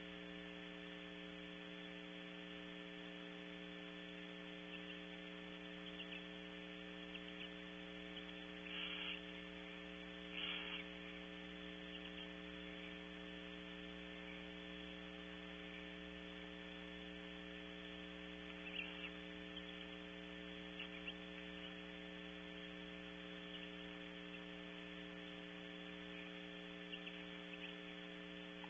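Steady electrical mains hum with a layer of hiss. Two short raspy noises come about a third of the way in, with a few faint clicks scattered through.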